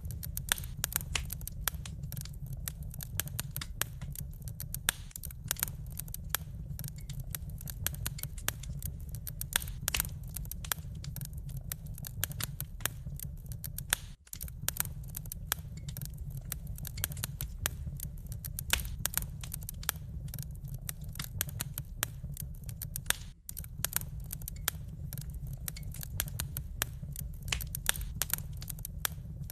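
Wood fire crackling: a dense run of sharp pops and snaps over a steady low rumble, cutting out briefly twice.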